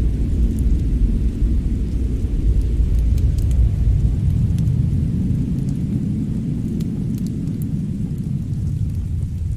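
A deep, steady rumble that swells a little midway, with faint, scattered crackles of a wood fire burning in a fireplace.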